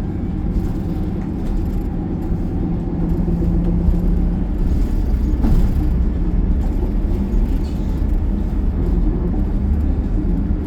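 City bus running, heard from inside the cabin: a steady low engine and road rumble with a hum. A brief knock or rattle about five and a half seconds in.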